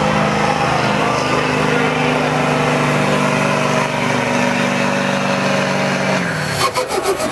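Duramax diesel pickup engine running at high, steady revs under load during a sled pull. About six seconds in, the revs drop away quickly as the throttle comes off, followed by a quick run of sharp rattles.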